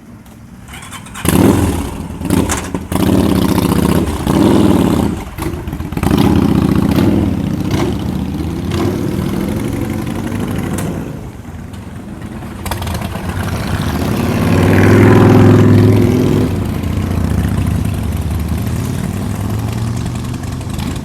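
Several motorcycle engines starting, revving and pulling away one after another, rising and falling in pitch. The sound comes in suddenly about a second in with a run of sharp revs, and is loudest about fifteen seconds in.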